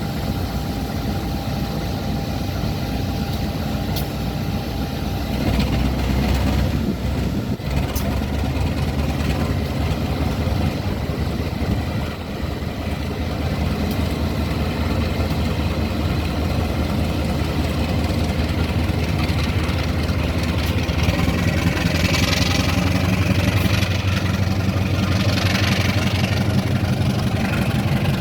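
Diesel-electric locomotive engine running, stepping up in loudness about five seconds in and again later as it throttles up to pull a passenger train away. Two bursts of hiss come near the end.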